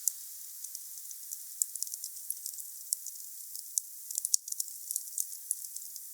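Wood fire crackling: many sharp, irregular pops and ticks over a steady soft hiss.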